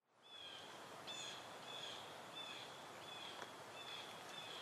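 Outdoor ambience fading in quickly: a faint steady hiss with a bird giving one short, high, slightly falling chirp over and over, about every two-thirds of a second.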